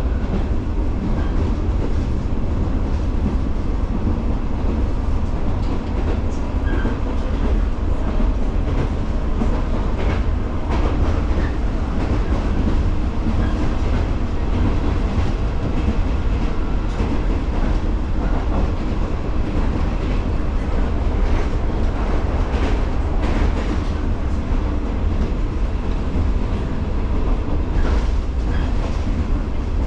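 115-series electric multiple unit running at speed: a steady low rumble of wheels and motors, with groups of sharp rail-joint clacks coming and going.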